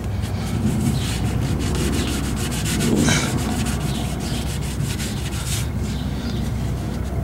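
Scratchy rubbing and scraping in many short strokes, loudest about three seconds in, over a steady low rumble.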